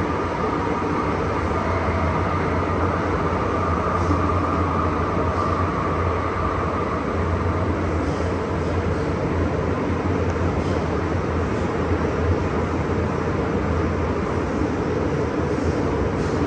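MTR M-Train electric multiple unit running along the line, a steady rumble with a low hum. A faint high whine is there at first and fades out about seven seconds in.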